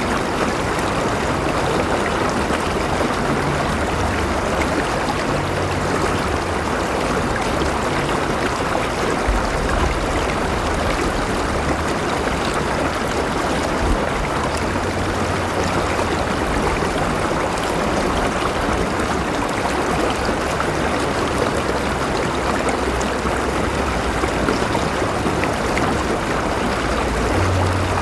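River water flowing steadily over rocks: a continuous rushing babble with a low rumble underneath.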